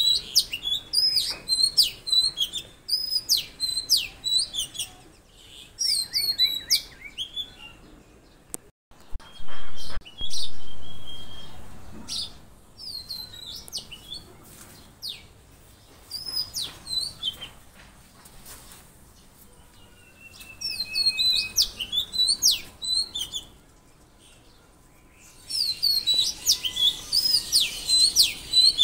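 Small songbirds chirping in quick repeated high notes, in bouts with pauses between them, and one longer drawn-out call a little over twenty seconds in. Two sudden loud thumps come just before and just after ten seconds in; they are the loudest sounds here, and the second dies away slowly.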